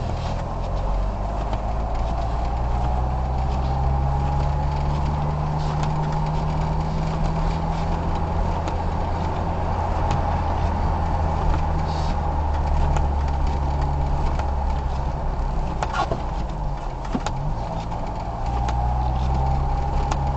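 Car engine and road noise heard from inside a moving car. The engine rises in pitch as the car speeds up over the first few seconds and again near the end, with a few sharp clicks about midway.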